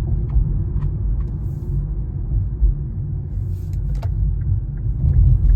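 Steady low rumble of a 2019 Infiniti Q50 3.0T on the move, its twin-turbo V6 and tyre noise heard from inside the cabin, with a sharp click about four seconds in.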